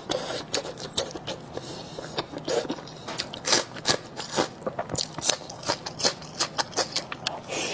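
Close-miked eating sounds: a person chewing pork large intestine stuffed with pig brain, with frequent irregular wet clicks and smacks of the mouth.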